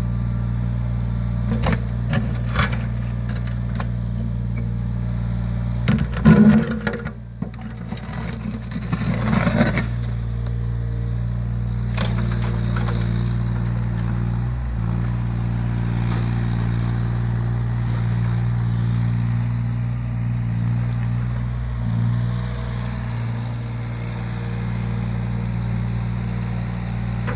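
Yanmar ViO17 mini excavator's diesel engine running steadily, with several short clanks and scrapes of metal on the machine, loudest about six and nine seconds in.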